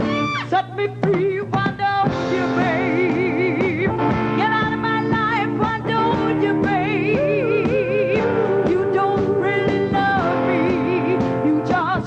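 A rock band playing with a singer's wavering vocal line on top. The band hits short, choppy accents in the first two seconds, then settles into a steady groove.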